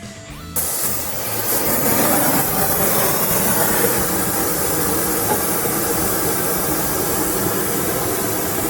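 Gas torch flame hissing steadily while heating steel bar for bending. The hiss starts abruptly about half a second in.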